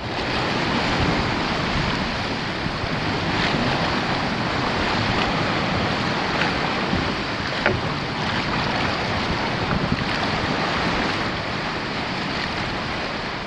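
Sea water and wind noise on the microphone: a steady rushing wash with a few faint ticks, with no voice or music.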